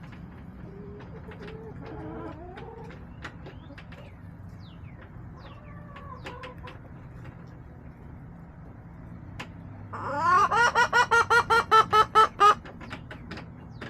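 Hens clucking and chirping softly, then about two thirds of the way in one hen breaks into a loud cackle: a quick run of about a dozen sharp clucks lasting a couple of seconds. A steady low hum lies underneath.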